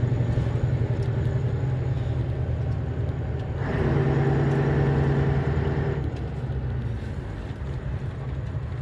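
Scania 142 truck's V8 diesel engine running while driving. It gets louder from about three and a half seconds in, holds for a couple of seconds, then eases off again.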